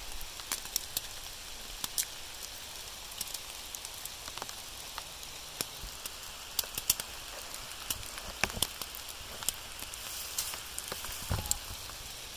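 Rain falling steadily: an even hiss with frequent sharp ticks of drops landing close by.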